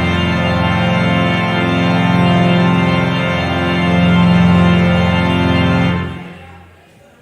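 Organ playing sustained full chords; the final chord is released about six seconds in and dies away over about a second.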